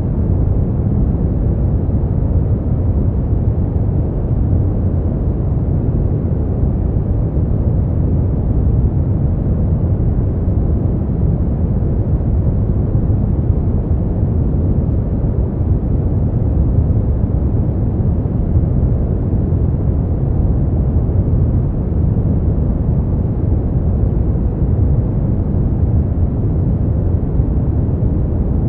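Steady, unchanging noise track for sleep, sold as white noise but deep and rumbling, with most of its weight in the bass and little treble.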